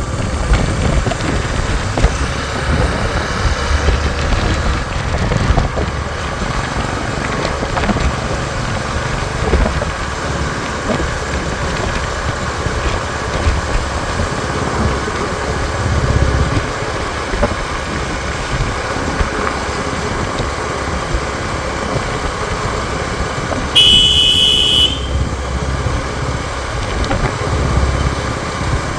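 Motorcycle engines running with road and wind noise on the move. A vehicle horn honks once for about a second near the end.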